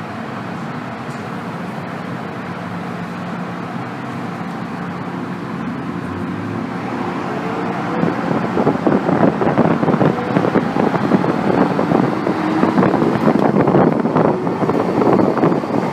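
Interior running noise of an MTR M-Train metro car under way: steady motor tones with a faintly rising pitch at first, then from about halfway through the wheel-on-rail rumble and rattle grow clearly louder.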